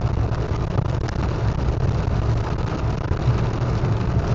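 Steady road and engine noise heard from inside a moving car: a low rumble under an even hiss.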